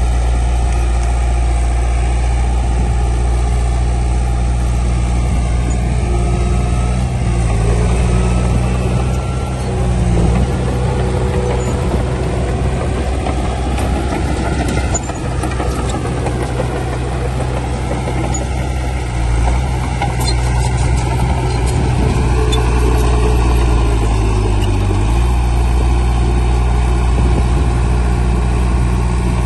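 Heavy diesel engine of earthmoving machinery running steadily under load, its pitch shifting a few times as the load changes.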